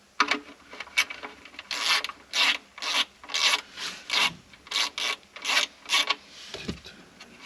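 Repeated rubbing or scraping strokes, about two a second, as a part is worked loose by hand during intake removal.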